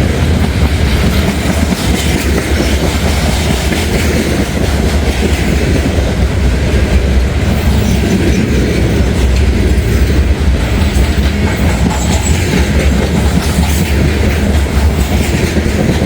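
CSX freight train's cars rolling past, steel wheels clicking over rail joints above a steady heavy rumble, the train moving not too fast.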